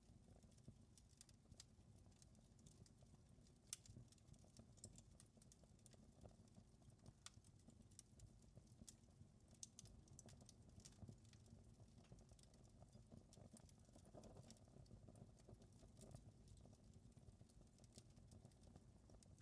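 Wood fire crackling in a fireplace: faint, irregular pops and snaps over a steady low rumble.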